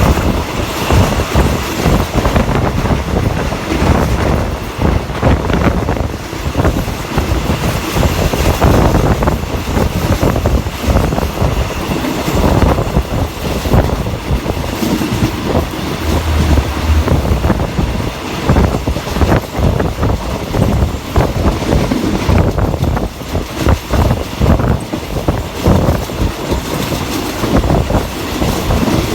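Passenger train running along the line, heard from on board: the wheels clack over rail joints and the carriage rattles, with a steady rumble underneath.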